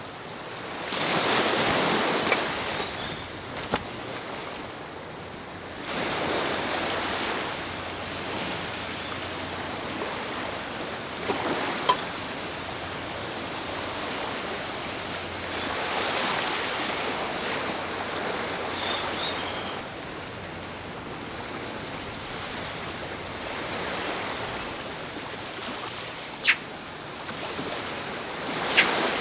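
Sea waves washing onto the shore in the wind, the surf swelling and falling back every several seconds. A few short sharp clicks stand out, one about twelve seconds in and two near the end.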